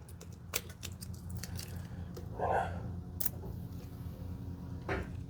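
Scattered light metallic clicks and scrapes of hand tools and parts being handled while the battery's negative terminal is worked on, with a low steady hum underneath.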